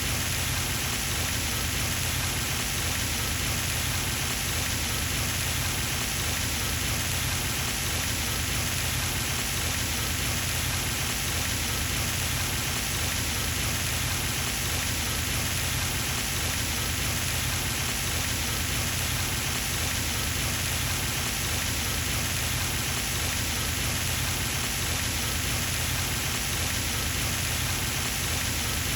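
Pond fountain running steadily, its spray splashing back onto the water surface in a continuous, even patter like rain.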